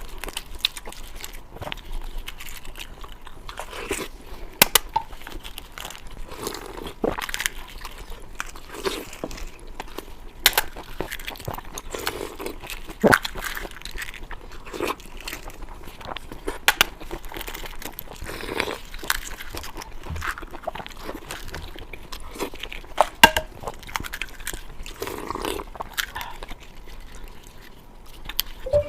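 Close-miked eating sounds: a person biting, crunching and chewing food, with irregular sharp crunches and wet mouth clicks every second or so.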